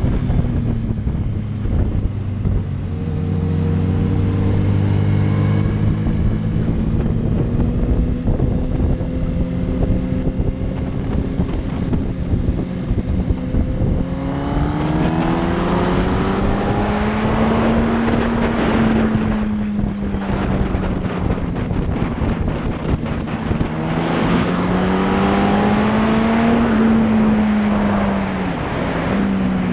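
Yamaha R1 sport bike's inline-four engine under way, with wind rushing over the microphone. It pulls at a steady pitch at first, then about halfway through it revs up and the pitch rises and falls twice with the throttle.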